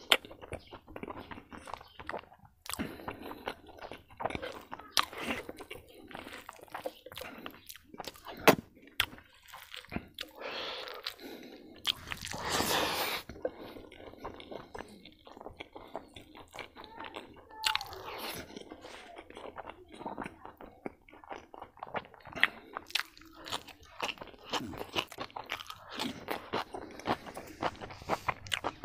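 A person chewing and crunching a mouthful of rice, kidney bean curry and raw vegetables close to the microphone: a steady run of wet mouth clicks and crunches, with a longer breathy noise about twelve seconds in.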